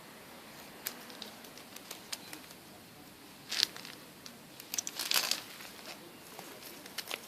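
Kittens moving about, making scattered light scratches and taps, with two short, louder scrabbling rustles about three and a half and five seconds in.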